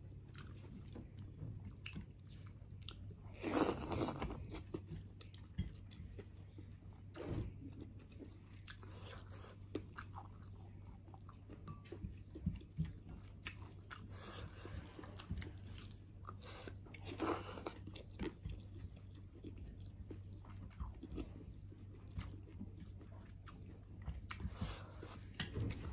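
Close-miked eating sounds: chewing and biting with scattered crunches, with a few louder bursts about 4, 7 and 17 seconds in and again near the end. A steady low hum runs underneath.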